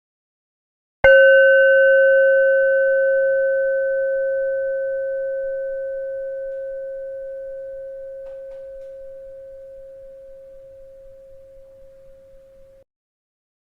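A single bell struck once, ringing with a clear tone and a few higher overtones that die away slowly over about twelve seconds. The ring cuts off abruptly near the end.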